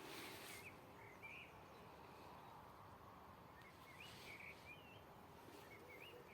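Faint bird chirps: short rising-and-falling calls heard a few times over a quiet background hiss.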